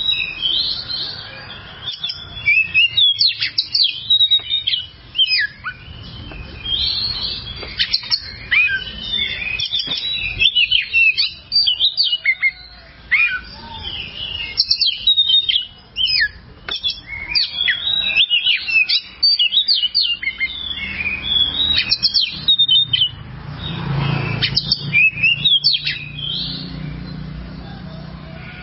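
Oriental magpie-robin (kacer) singing continuously: a rapid, varied run of sharp whistles, trills and chattering notes with only brief breaks. A low hum underlies the song during the last few seconds.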